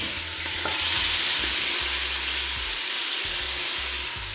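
Seasoned chicken sizzling as it fries in hot oil and curry in a stainless steel pot, stirred with a spoon. The sizzle is loudest about a second in, right after the chicken goes into the pot.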